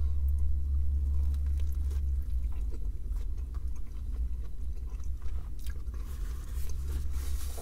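A man chewing a mouthful of chicken burger, with faint scattered mouth clicks, over a steady low rumble in a car cabin.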